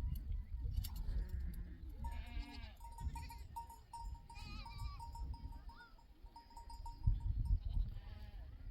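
Sheep and goats bleating, a few short wavering calls about two and four seconds in, over a low rumble of wind on the microphone.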